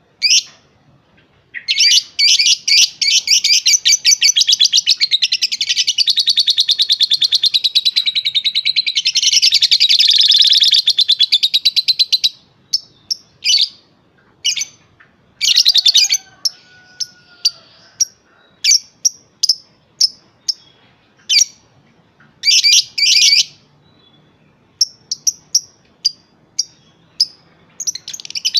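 Young lovebird singing: a long, rapid, unbroken chatter lasting about ten seconds, then a string of short, sharp chirps and brief chattering bursts.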